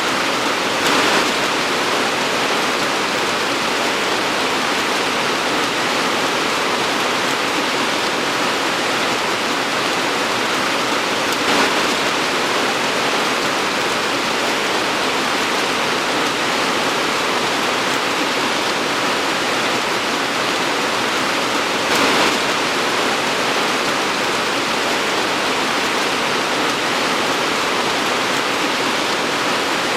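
Torrential rain pouring down steadily as a dense, even hiss, with three brief louder swells about ten seconds apart.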